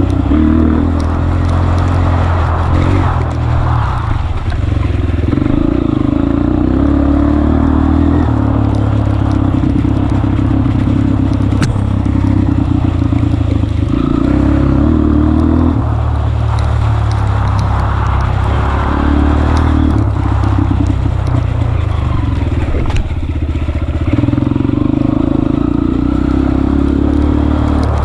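Honda CRF230F's single-cylinder four-stroke engine running continuously, the throttle opening and easing off every few seconds, with a few sharp knocks along the way.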